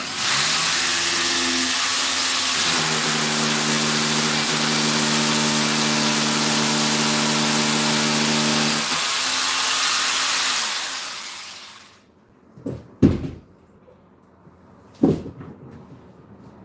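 Electric drill running for about eleven seconds, boring a hole in the wall for a screw, its motor holding a steady pitch before it fades out. Two sharp knocks follow.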